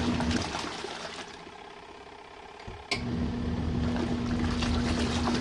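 Compact RV washing machine running its wash with a steady motor hum and water churning. The motor stops about half a second in and pauses for about two and a half seconds, then a sharp click comes about three seconds in and it starts running again.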